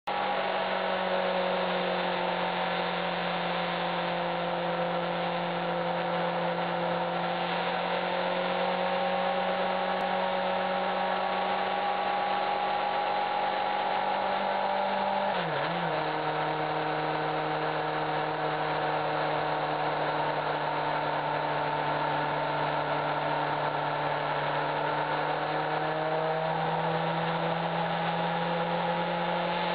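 Honda CBF600 motorcycle's inline-four engine running steadily at road speed. About halfway through its pitch dips sharply and settles lower, then slowly climbs again near the end.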